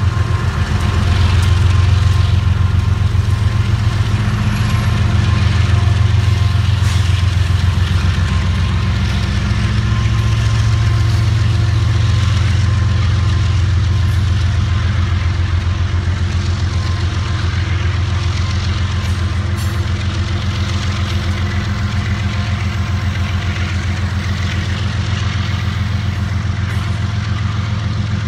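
Loaded coal train rolling past close by: a steady low rumble of the hopper cars' wheels on the rail. The diesel drone of the GE ES44DC locomotives that lead it is strongest in the first seconds, and the rumble eases slightly toward the end.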